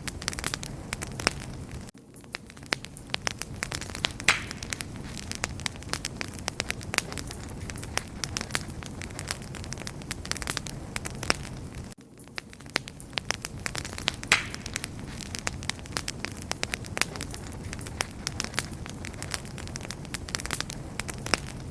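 Wood fire burning, with a steady low rush and many sharp crackles and pops. The same stretch of fire sound repeats about every ten seconds, each time after a brief dip.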